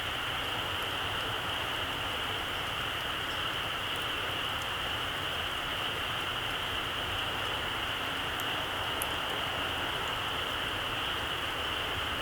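Small campfire of embers with a few faint sharp crackles, over a steady hiss that is the loudest sound and does not change.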